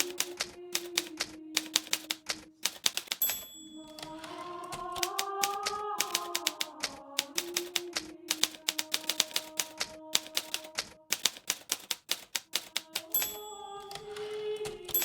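Hermes Baby portable typewriter being typed on: rapid runs of keystrokes broken by short pauses. Soft background music plays under it.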